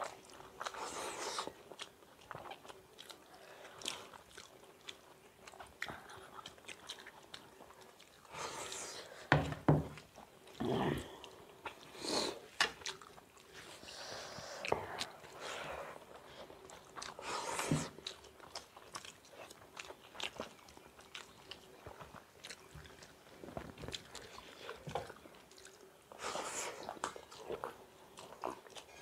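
Close-up chewing and mouth sounds of people eating rice and egg bhurji by hand: many soft wet clicks and smacks, with a few louder bites in the middle stretch.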